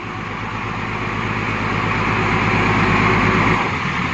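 Heavy diesel engine revving hard under load, trying to drive a six-wheel dump truck out of deep sand. It grows louder over about three seconds, and the deep rumble eases off shortly before the end.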